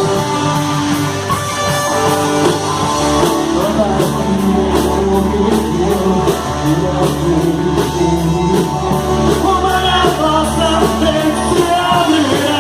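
Live worship band playing a rock-style song: a steady drum beat, guitar and held chords, with singing that comes through more clearly near the end.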